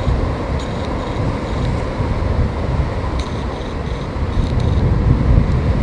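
Wind buffeting the microphone: a gusty low rumble over a steady rush of noise.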